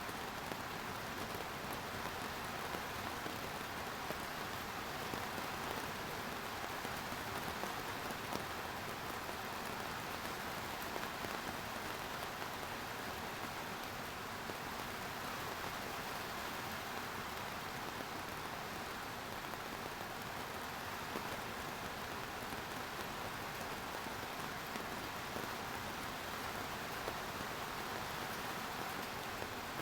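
Steady rain falling, an even hiss with dense fine drop patter and no letup.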